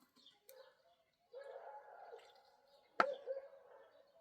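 A single sharp knock about three seconds in, over faint bird calls.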